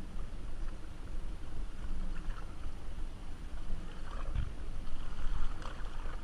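Outdoor wind and water noise on a small boat: a steady low rumble of wind on the microphone, with faint water sounds.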